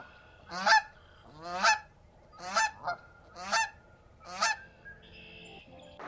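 Goose honking, five honks about a second apart.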